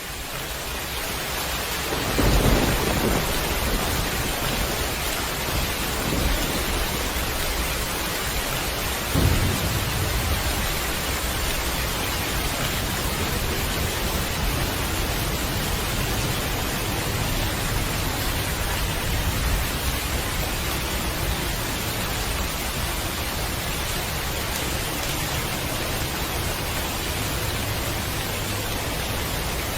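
Steady heavy rain with thunder: deep rumbles stand out about two seconds in, again around six seconds and near nine seconds, over the even hiss of the downpour.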